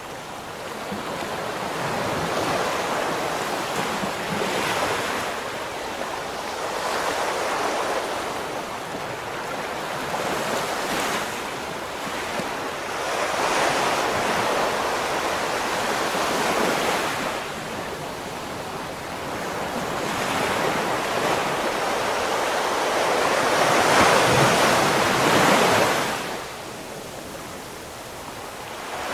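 Ocean waves breaking and washing ashore, the surf swelling and fading every few seconds, loudest about three quarters of the way through, then falling away near the end.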